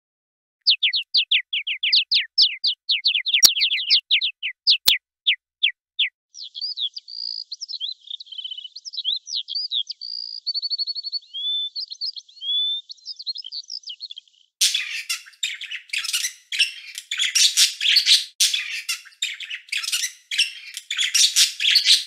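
Songbirds calling and singing: first a run of quick, downward-sweeping chirps, then a varied warbling song with a fast trill, and from about two-thirds of the way through a dense, scratchy chatter. Two sharp clicks sound among the first chirps.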